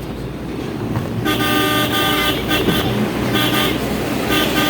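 Vehicle horn honking: one long blast starting about a second in, then a few short toots, over the steady rumble of engine and road noise.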